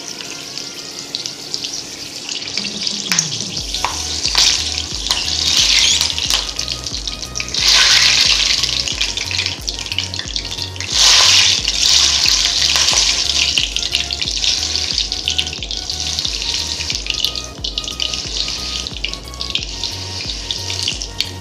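Green chillies deep-frying in hot oil in a kadhai, sizzling steadily, with two louder surges of sizzling about a third and halfway through.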